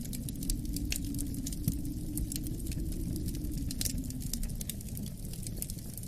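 Wood fire crackling in a fireplace, with many irregular small pops, over a steady low rumble of wind.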